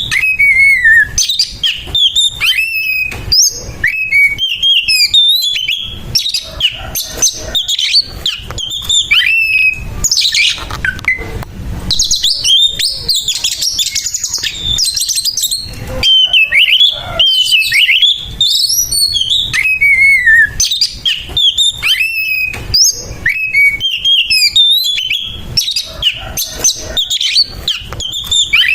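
Oriental magpie-robin singing nonstop in its aggressive, fighting style: a rapid stream of short whistled notes that slide up and down, mixed with stretches of harsh, scratchy notes around the middle.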